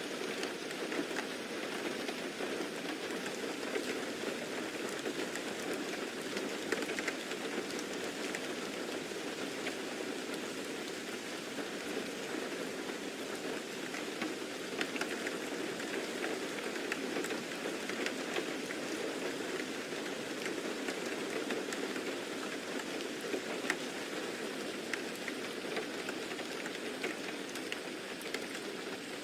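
Steady rain, a continuous even hiss of falling rain with scattered faint drop ticks.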